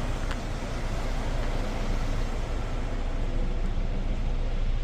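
Steady low mechanical rumble of an automatic car wash bay, with an idling truck engine and wash equipment running, and a couple of faint clicks at the start.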